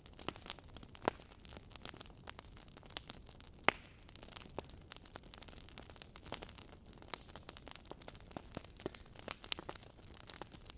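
Wood fire burning in a fireplace: burning logs crackling, with irregular sharp pops and snaps over a soft hiss, the loudest snaps about one and three and a half seconds in.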